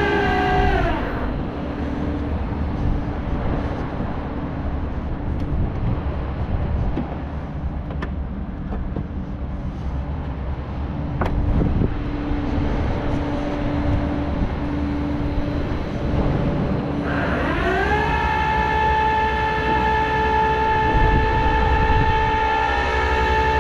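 Flatbed tow truck's engine and hydraulic pump running the winch to pull a car up onto the bed: a whine that drops away at the start, a steady low hum with a couple of sharp clicks, then rises again about three-quarters of the way through, holds steady for several seconds and drops back near the end.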